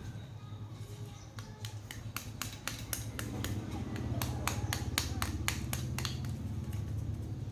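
A quick, irregular run of sharp clicks and ticks, denser in the middle, over a steady low hum.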